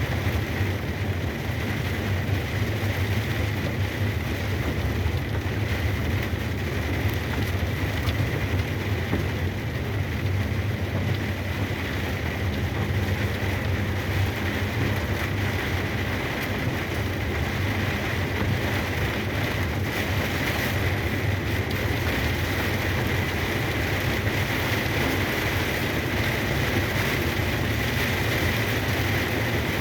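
Steady drone of a truck driving in heavy rain, heard from inside the cab: a constant low engine hum under the hiss of rain and wet-road spray.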